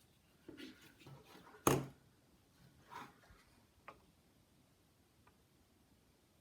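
Faint handling sounds at a workbench: one sharp tap a little under two seconds in, then a few light clicks.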